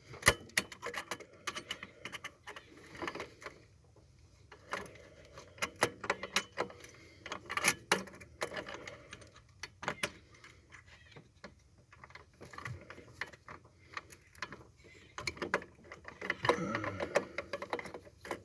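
Irregular metallic clinks, taps and rattles of hand tools and small metal parts being handled while a part is pulled out of a car's engine bay.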